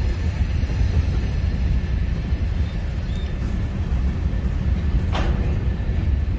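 BNSF covered hopper cars of a freight train rolling past: a steady low rumble of wheels on rail, with one sharp clank about five seconds in.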